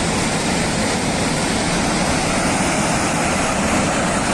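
Rushing floodwater making a loud, steady, unbroken noise.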